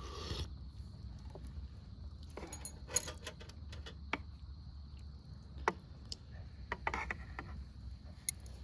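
Light clinks and taps of tableware, such as chopsticks or a utensil against a bowl or pot, during a meal. There are a handful of short knocks, a few close together about seven seconds in, over a steady low hum.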